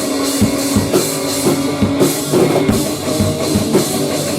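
Grunge/hardcore rock band playing an instrumental stretch with no singing: a drum kit with bass drum strikes about twice a second under sustained electric guitar.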